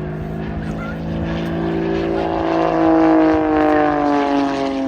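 Single-engine piston aerobatic aircraft, an Extra 330LX, flying past with its propeller and engine running hard. The engine note swells to its loudest about three seconds in, then drops in pitch as it passes.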